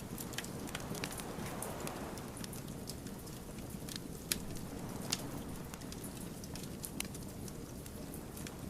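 Wood fire crackling: irregular sharp pops and snaps of burning logs over a low, steady rush of flame, with a couple of louder pops around the middle.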